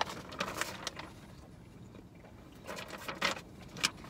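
Close-up chewing of a mouthful of hot dog in a soft bun: wet mouth clicks and smacks that come in a few short clusters, near the start and again about three seconds in.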